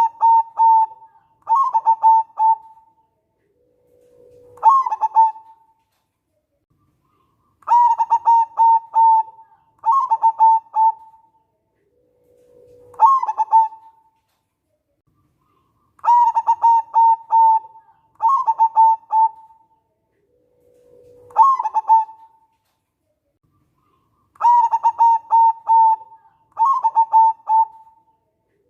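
Zebra dove (local perkutut) cooing its song. Each phrase opens with a low note that jumps up, then runs into a string of quick, stuttering coos. The same phrase repeats about every eight seconds, three times over, with short silences between.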